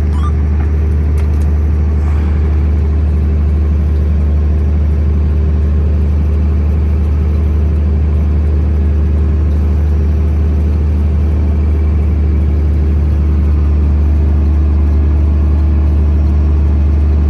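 Semi-truck's diesel engine pulling steadily in first gear at about 1500 rpm under load, heard inside the cab as an even low drone while the rig crawls up a snowy grade with the differential lock engaged.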